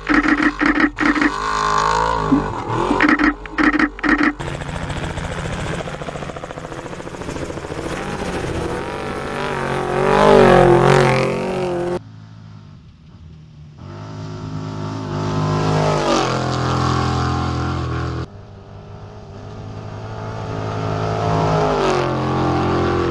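Off-road race truck engines at full throttle as trucks race past, in several separate shots joined by abrupt cuts. The loudest pass is about ten seconds in, its engine pitch rising and then dropping as it goes by. The sound cuts sharply at about twelve and eighteen seconds.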